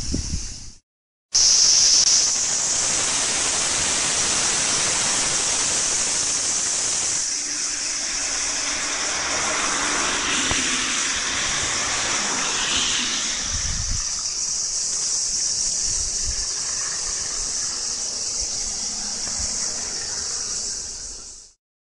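Steady rushing hiss of heavy rain and water on a flooded road. It starts after a short cut about a second in and stops just before the end.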